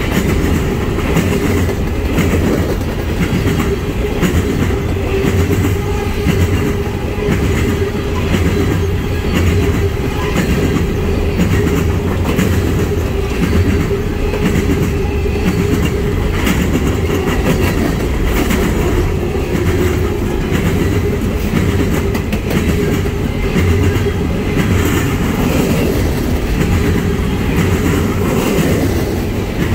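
Freight train of steel coal cars rolling past: a steady rumble of steel wheels on rail, with a continuous clickety-clack of wheels over rail joints and a steady whine underneath.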